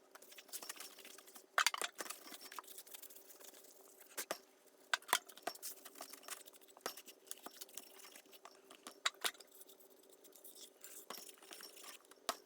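Scattered light clicks and clinks, with a faint steady hum underneath: a cast metal pulley guard being handled and wiped down with acetone.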